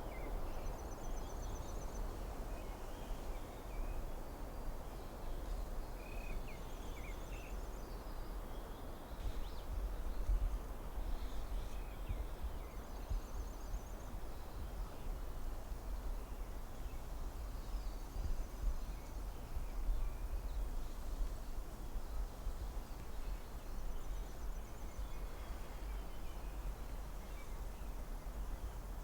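Forest ambience: a steady rush of wind through the trees with a low wind rumble, scattered faint bird chirps, and a short, high, rapidly pulsed trill that repeats about every five seconds.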